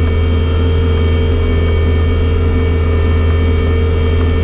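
Bobcat skid steer loader's diesel engine running at a steady speed, a constant low drone with no change in pitch.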